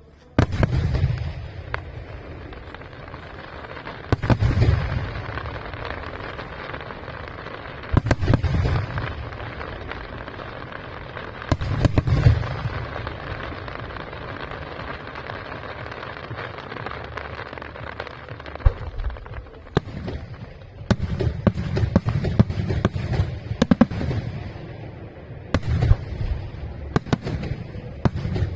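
Fireworks display: heavy aerial shell bursts about every four seconds, with steady crackling in between. Near the end, the bursts come faster and closer together.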